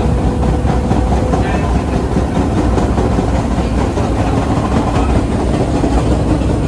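1930s R1-9 subway car running along the track, heard from inside the car: a loud, steady rumble with the clatter of wheels on the rails.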